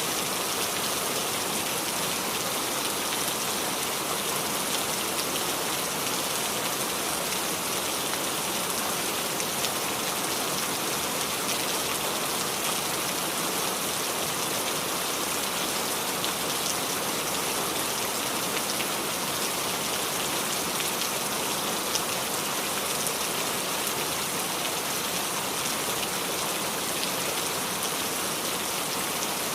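Steady rain falling on the leaves of a small tree, an even hiss dotted with the ticks of individual drops.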